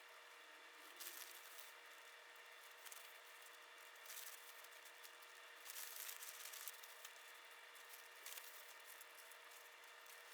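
Near silence with a few faint rustling and scraping handling sounds, the clearest about six seconds in.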